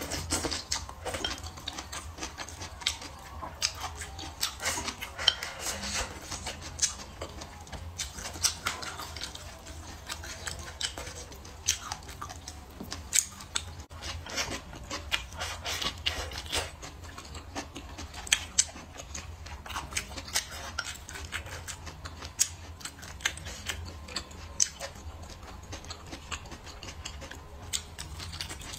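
Close-miked eating sounds: wet chewing and mouth smacks as rice and stir-fried greens are eaten, with wooden chopsticks tapping a ceramic bowl. The sound is a dense run of small crisp clicks over a steady low hum.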